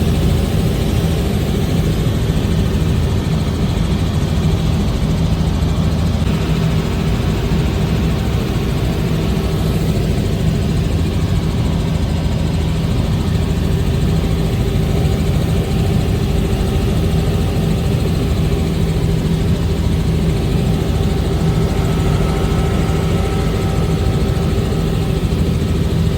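Helicopter engine and rotor running steadily: a loud, constant drone with a low hum that does not change.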